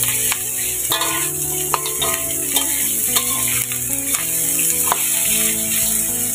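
Meat and spices sizzling in a wok while being stirred and turned, with scattered clicks and scrapes of the utensil against the pan. Background music with long held notes plays underneath.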